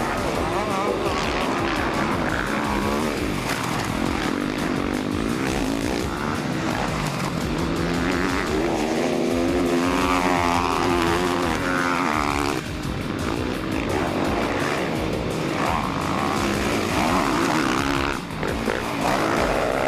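Motocross motorcycle engines racing on the track, revving up and down with the pitch rising and falling as bikes pass, over background music.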